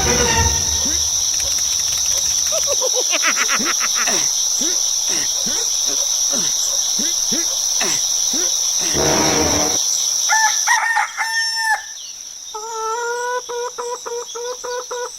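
Night insects, crickets, trill steadily with many short repeated calls over them. Then a rooster crows, ending in one long held note near the end, marking daybreak.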